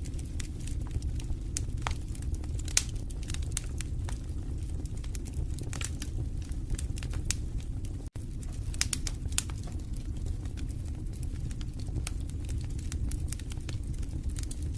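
Wood fire crackling in a fireplace: irregular sharp pops and snaps over a steady low rumble of the flames. The sound cuts out for an instant a little past the middle.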